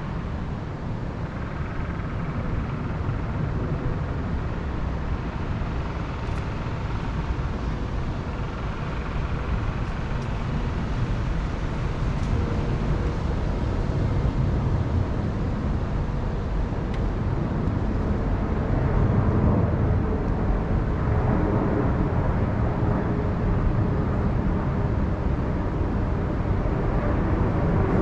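Wind blowing through the mountain forest: a steady rushing noise, heaviest in the low range, that grows stronger in the second half.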